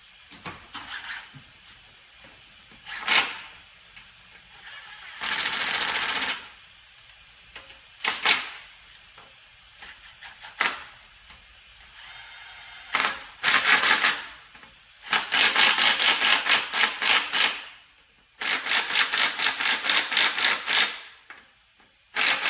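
Impact gun with a 14 mm socket running bolts into the engine's motor brackets in several short bursts. Two longer runs of rapid hammering follow about 15 and 18 seconds in, as the bolts tighten.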